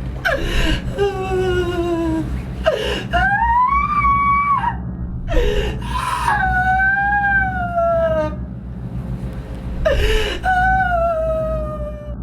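A person crying out in distress: four long, high, wavering wails, each starting with a sharp gasp, over a steady low hum.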